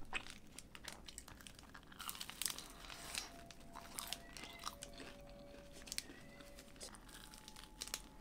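Bites and chewing of a crisp pan-fried hotteok (Korean sweet pancake): scattered short crunches, with the paper wrapper crinkling in the hands.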